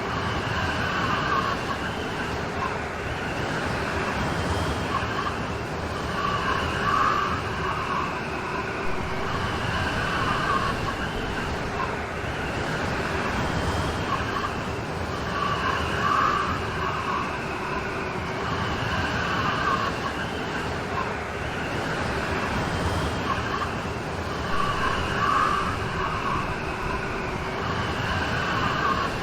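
Steady rain falling, a dense even hiss, with a higher sound that swells and fades about every three seconds.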